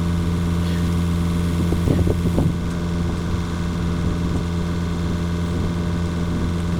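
Komatsu mini excavator's diesel engine running steadily at a constant speed, with a brief wavering sound about two seconds in.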